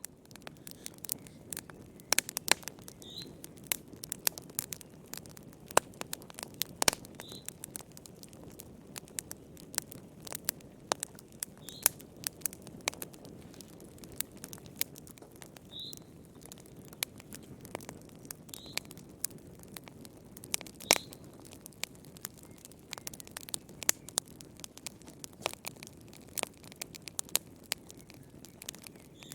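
Wood fire crackling, with frequent sharp pops of varying strength over a low, steady rumble. A short high chirp sounds every few seconds.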